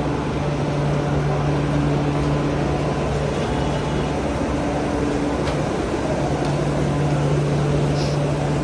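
Steady rumble of a moving train heard from inside the carriage, with a low, even hum underneath.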